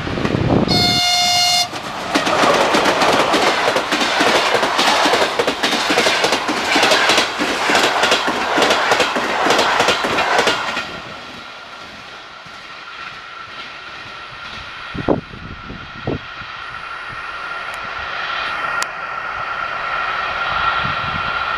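ChS7 electric locomotive's horn sounding briefly, then the passenger train running past with its wheels clattering rapidly over the rail joints for about nine seconds. The clatter then drops to a quieter steady rumble with a thin ringing tone and two short thumps.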